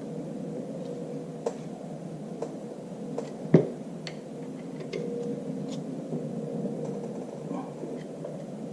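Scattered light metallic clicks and taps of hand tools working at a lock tab on a tractor power take-off's bearing retaining nut, with one sharper knock about three and a half seconds in. A steady hum runs underneath.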